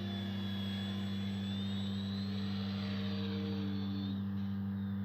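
Electric RC airplane in flight: the whine of its 3136-size brushless motor and propeller, gliding up in pitch about two seconds in and falling away near four seconds, over a steady low hum.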